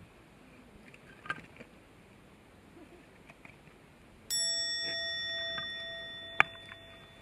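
Light knocks and ticks, then a metal object struck once about four seconds in, ringing with a clear bell-like tone that fades over about three seconds; a sharp metallic tap lands during the ring.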